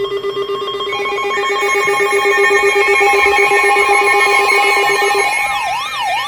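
Several emergency weather alert tones from alert receivers sounding together. A fast-warbling, ringing tone stops about five seconds in, steady high tones hold throughout, and a siren-like tone rises and falls about twice a second near the end. They mark the start of a new weather warning.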